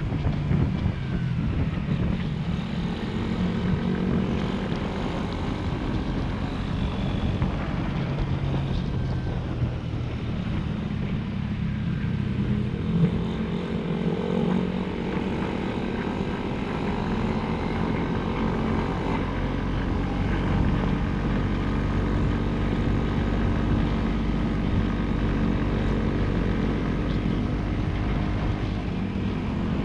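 Small motorcycle engine running under way, its pitch drifting up and down a little with the throttle.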